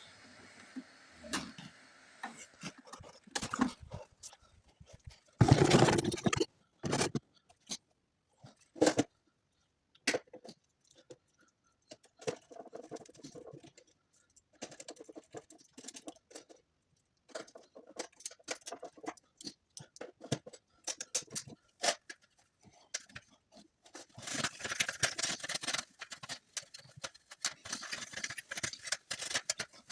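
Irregular handling noises: clicks, knocks and scraping, with a louder rustling burst about six seconds in and a denser scraping stretch near the end.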